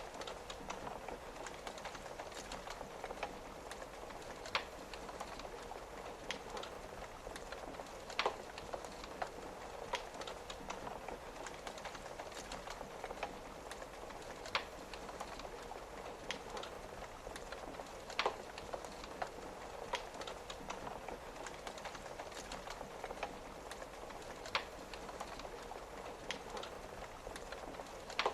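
Steady rain pattering, with a fireplace crackling and a sharp pop every few seconds.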